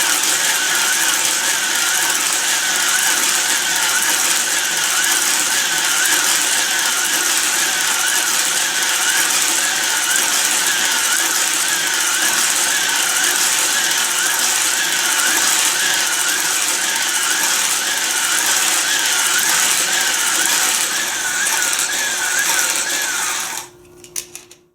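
Small battery-powered electric motors of Hot Wheels slot cars running on a plastic track, giving a steady mechanical whirr with a whine that wavers quickly up and down in a regular rhythm. The whirr stops abruptly about a second before the end, followed by a few light clicks.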